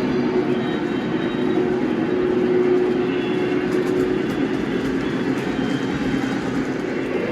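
Model train running on the layout track: a steady rumble with a constant hum.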